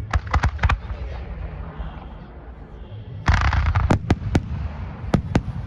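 Fireworks going off: a quick run of four sharp cracks at the start, then a loud crackling burst about three seconds in, followed by several more scattered sharp bangs, over a steady low rumble.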